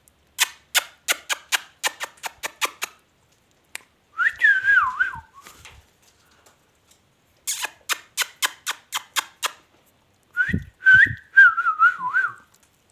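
Pet parrot whistling two short warbling phrases that wobble and fall in pitch. Each follows a run of quick sharp clicks, about three or four a second.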